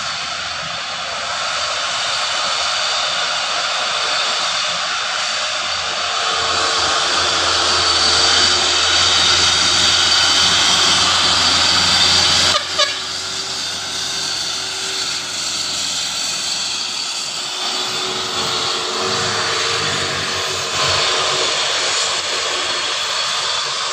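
Heavy truck's diesel engine running hard on a steep uphill climb, a loud steady rushing noise that changes abruptly about halfway through.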